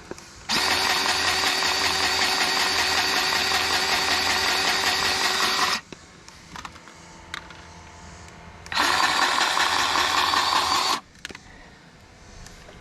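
Battery-powered grease gun's motor running in two bursts, one of about five seconds and a shorter one of about two seconds, pumping grease into an excavator's grease fitting.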